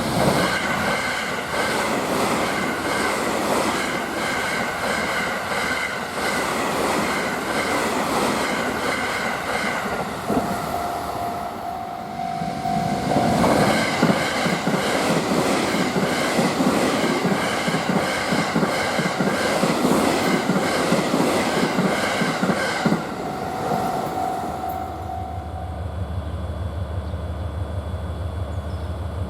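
Freight train passing close by, its wagons' wheels clattering in a steady rhythm over the rail joints. The clatter dips and starts again partway through, and near the end a steady low hum takes over.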